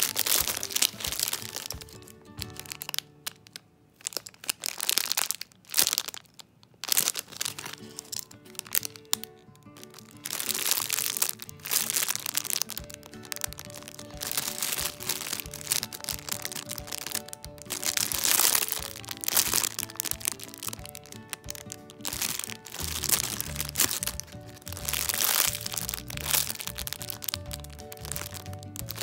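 Clear plastic packaging crinkling and crackling in repeated bursts as hands squeeze bread-shaped squishy toys still sealed in their bags, over background music.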